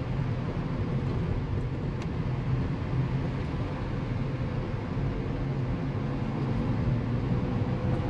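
Car driving along a road: a steady low drone of engine and tyre noise, heard from inside the car.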